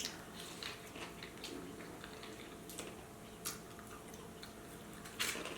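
Faint scattered clicks and soft ticks over a steady low hum.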